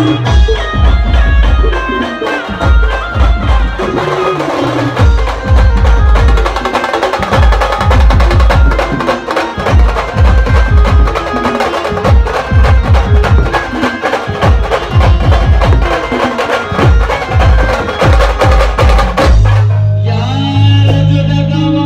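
Band music with heavy, fast drumming under a keyboard melody, playing a Marathi devotional song. About nineteen seconds in, the drums stop and only long held notes remain.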